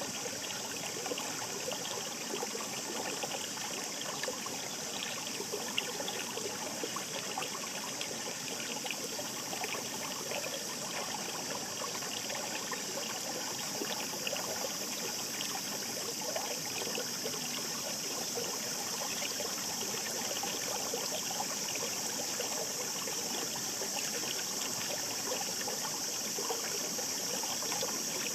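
Shallow mountain stream babbling over rocks: a steady, continuous rush of water with many small splashes, over an even high hiss.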